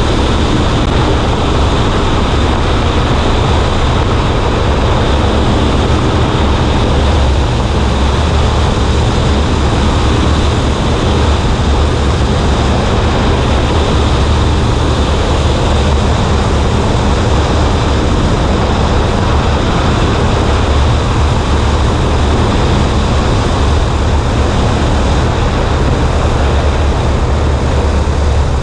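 Cessna 140A light airplane's engine and propeller running steadily, a deep drone under a loud rush of wind over the wing-mounted microphone.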